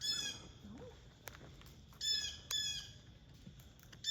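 A bird calling in short, harsh squawks, four in all: one at the start, two close together about two seconds in, and one at the very end.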